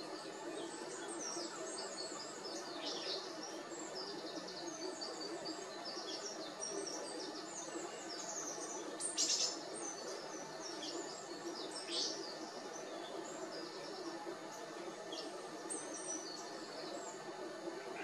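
Blue tits calling with many short, high twittering chirps over a steady low background hum. Two louder, sharper notes stand out about nine and twelve seconds in.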